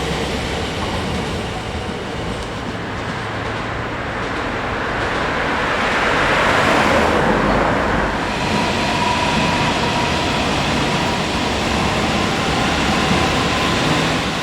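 A train passing, loudest about six to eight seconds in, with a steady high whine after it has passed its loudest.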